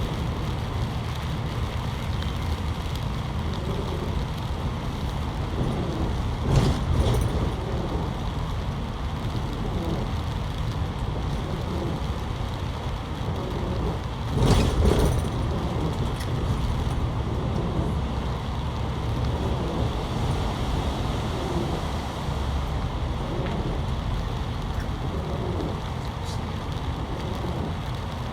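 Steady engine and road noise inside a moving bus, with two brief louder rushes, about six and fourteen seconds in.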